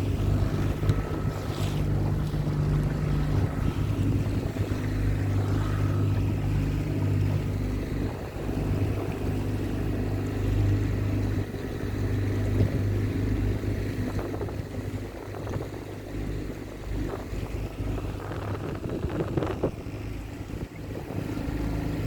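A small hire motorboat's engine running steadily at cruising speed, a low even hum that weakens about halfway through, with wind buffeting the microphone.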